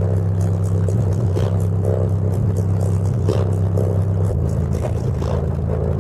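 Bass-heavy music played loud through a Cadence S2W15 15-inch subwoofer: deep sustained bass notes that change pitch about four seconds in, over a beat of sharp hits about once a second.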